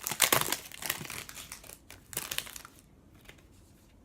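Trading-card pack wrapper crinkling and being torn open, a run of quick bursts that stops about three seconds in.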